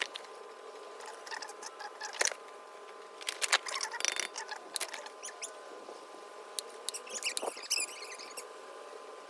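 Quick light clicks, taps and scratchy scraping, most frequent in the middle, over a steady faint hum.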